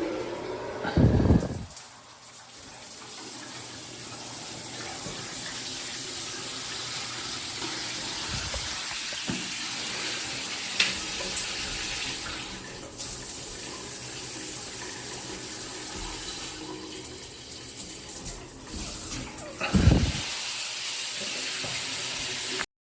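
Shower head spraying water in a steady hiss, with two heavy low thumps, one about a second in and one near the end; the spray cuts off suddenly just before the end.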